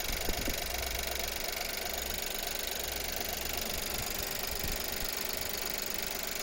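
Seat Arona 1.0 TSI three-cylinder turbo petrol engine idling warm, running steadily with a rattle and a squeak. The owner suspects a valve or a bearing.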